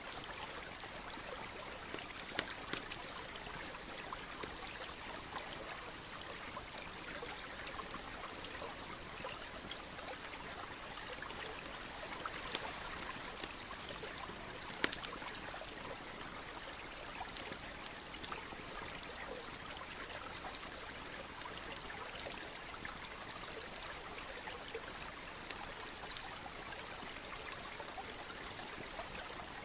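Campfire crackling, with irregular sharp pops, a few louder ones around 3, 12 and 15 seconds in, over the steady trickle of a stream.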